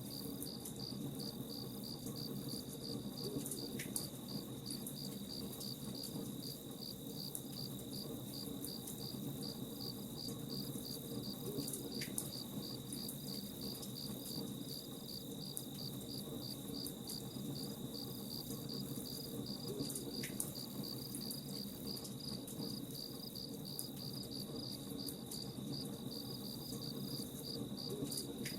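Crickets chirping in a steady, even rhythm over a campfire crackling with scattered small pops.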